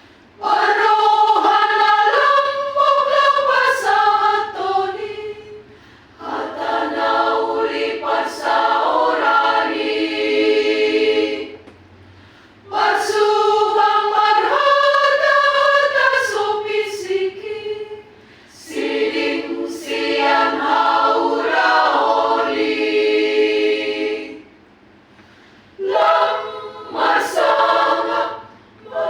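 Choir singing in rehearsal: five sung phrases of about five seconds each, broken by short pauses, with the same phrase sung again partway through.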